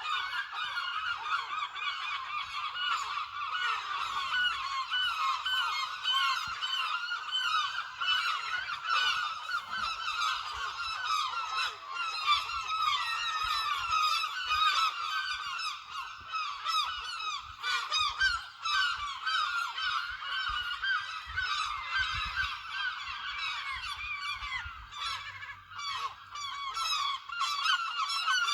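A large flock of gulls calling all together: many short, overlapping calls with no pause.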